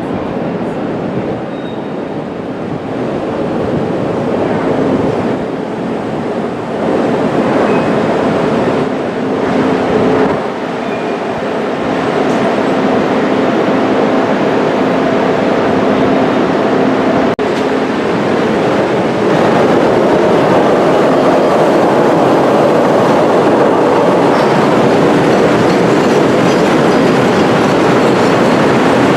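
CTA rapid-transit train running along the track, continuous wheel-and-rail noise with some faint steady tones partway through. It grows louder about two-thirds in and stays loud.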